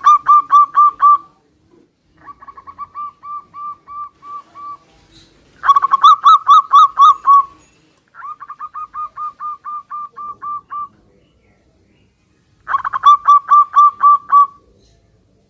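Zebra doves (perkutut) cooing back and forth: one bird gives loud phrases of quick repeated coo notes three times, and a quieter bird answers twice in between.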